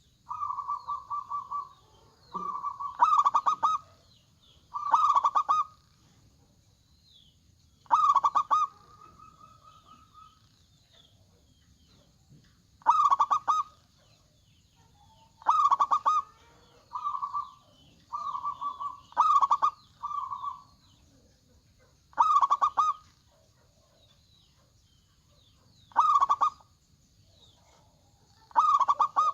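Zebra doves (perkutut) cooing: about a dozen short, rhythmic coo phrases every two to three seconds, loud ones alternating with softer ones, with faint high chirps in between.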